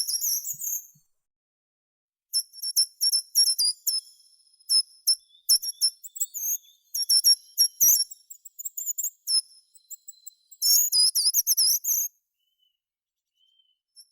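A songbird singing in quick, very high-pitched phrases of chirps and trills broken by short pauses, with a longer trilled phrase about three quarters of the way through.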